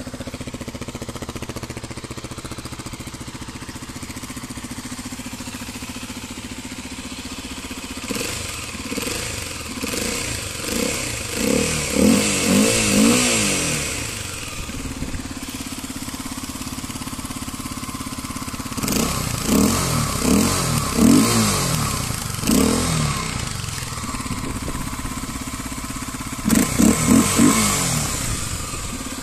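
Kawasaki KLX dual-sport motorcycle's single-cylinder engine idling at a standstill, revved in three rounds of quick throttle blips, the revs rising and falling several times in each: one round about a third of the way in, a second past the middle, and a short, fast one near the end.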